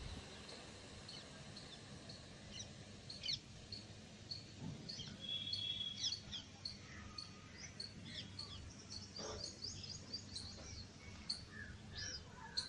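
Small birds chirping, many short repeated calls, over a faint low rumble of outdoor noise.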